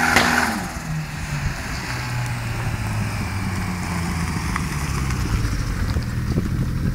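Turbocharged K-series engine in a Ford Sierra coming off the throttle about half a second in, then running at a low, steady idle as the car rolls up and stops close by.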